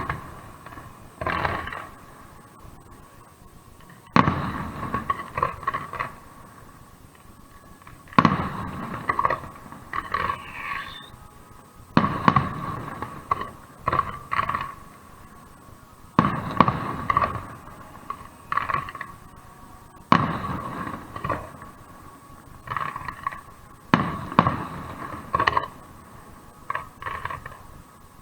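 Aerial fireworks exploding in salvos about every four seconds, each a loud bang followed by a quick cluster of smaller cracking reports that ring on briefly.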